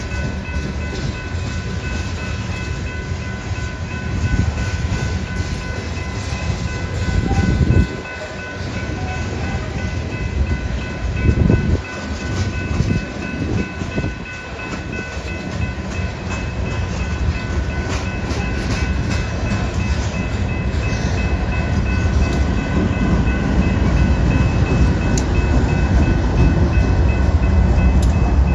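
BNSF grain train's freight cars rolling past: a continuous low rumble of wheels on rail with a few louder swells and several steady high-pitched tones over it. The rumble grows louder over the last third.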